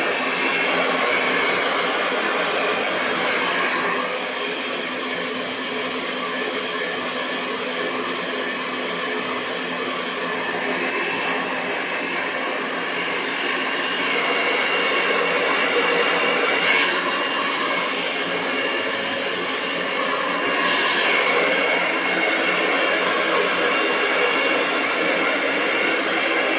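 Hair dryer blowing continuously: a steady rush of air over the hum and whine of its motor, the tone shifting slightly every few seconds.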